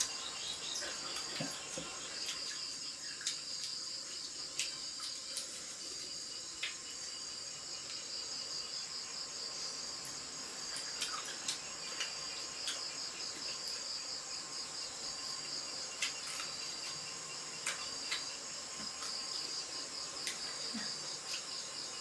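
Insects chirring steadily in a high, pulsing trill, with scattered sharp clicks over it.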